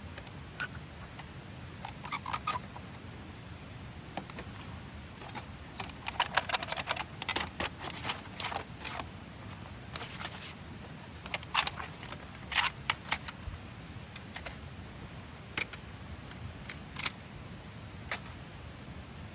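Metal parts of a folding Wolf and Grizzly Fire Safe fire pit clicking and clinking as it is folded and packed away: scattered sharp clicks, bunched in clusters about six to nine seconds in and again around eleven to thirteen seconds.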